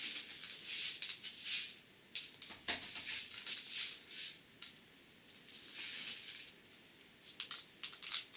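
Tiny seed beads being sprinkled by hand onto a glue-coated picture: several short hissing trickles, with a cluster of small ticks near the end.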